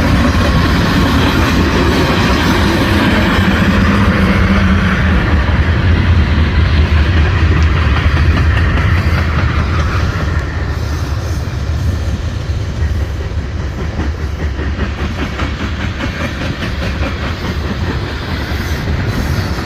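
A train rolling past, its wheels clattering over the rail joints with a steady heavy rumble that eases off somewhat after about ten seconds.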